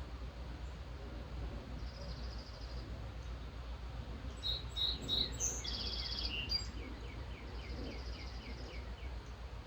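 Several songbirds singing in a morning chorus: high trills, a run of short falling chirps, and one louder, varied song phrase about halfway through, over a steady low rumble.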